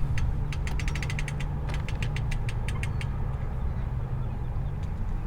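An engine idling with a steady low hum, with rapid sharp clicking during roughly the first three seconds.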